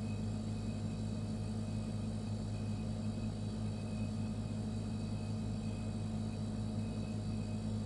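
Refrigerator running: a steady low hum with a faint high whine above it, unchanging throughout.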